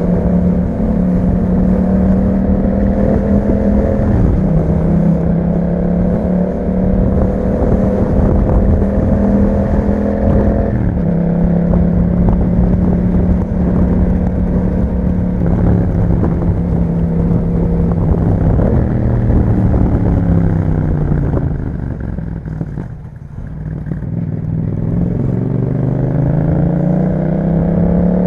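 2021 Yamaha MT-07's parallel-twin engine through an Akrapovic exhaust, running under way at steady revs with a couple of small pitch steps. Past the middle the revs fall away and the engine briefly quietens, then it picks up again.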